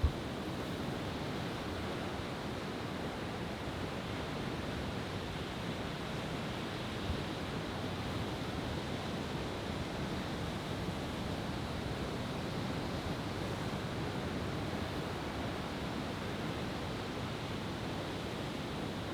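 Steady rushing of ocean surf breaking on the beach, with a short thump right at the start and a fainter one about seven seconds in.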